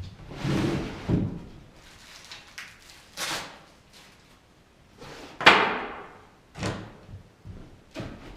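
A series of about five separate bangs and clatters, with quieter gaps between them. The loudest is a sharp clatter with a short ring-out about five and a half seconds in.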